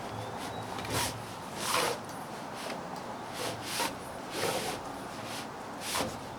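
Irregular rubbing and scraping strokes, about six of them, as a folding camp cot is assembled: its fabric and frame poles sliding against each other, over a steady background hiss.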